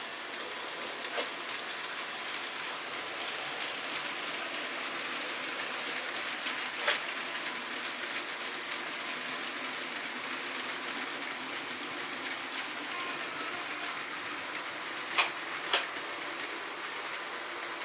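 H0-scale model trains running on the layout: a steady whir of small motors and metal wheels rolling on rails, with a few sharp clicks, the loudest about 7 s in and two close together near the end.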